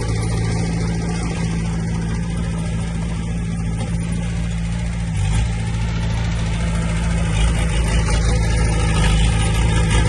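Diesel engine of a heavy earthmoving machine running steadily at a constant speed, with a brief change in engine note about five seconds in.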